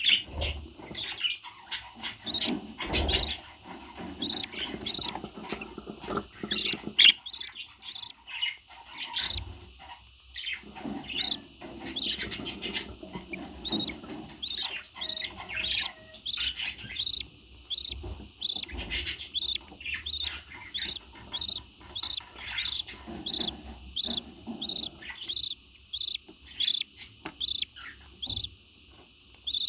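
Pet parrot chirping in short repeated calls, irregular at first, then settling into a steady run of about two chirps a second in the second half.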